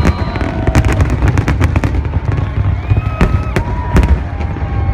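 A fireworks display: many sharp cracks and pops in quick, irregular succession over a continuous deep rumble of bursts.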